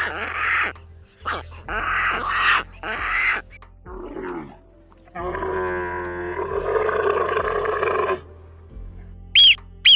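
A sequence of animal calls: several short harsh calls, then one long roaring call lasting about three seconds, then high squeaks near the end.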